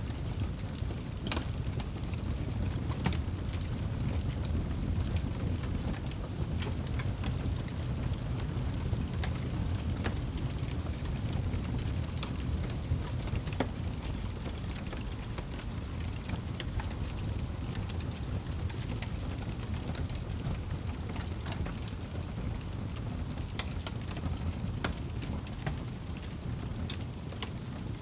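Wood fire burning in a fireplace: a steady low rumble of flame with irregular sharp crackles and pops scattered throughout.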